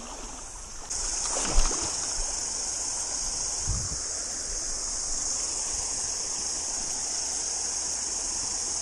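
A chorus of cicadas buzzing in a steady, shrill drone that cuts in sharply about a second in, over the rush of a small stream. A couple of brief low knocks sound early on.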